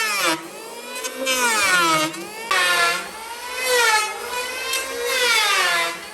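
Electric power tool's motor whining as it works wood, its pitch sagging under load and climbing back again several times.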